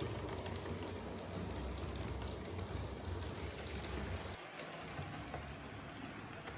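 Model train running on a layout track, a steady rolling rush with a low hum that drops away about four seconds in.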